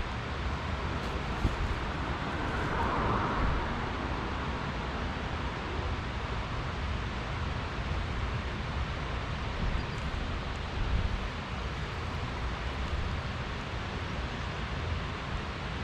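Steady background noise under a road bridge over a river: flowing water and a low traffic rumble, with a brief swell about three seconds in.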